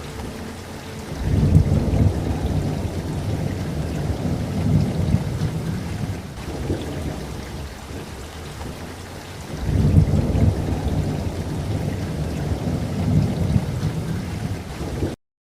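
Steady rain with two long rolls of thunder, the first starting about a second in and the second near ten seconds in. The sound cuts off suddenly just before the end.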